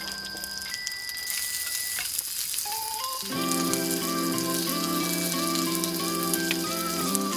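Food sizzling and frying in a hot pan, a steady fine hiss with small crackles. Background music with a stepping melody comes in about three seconds in.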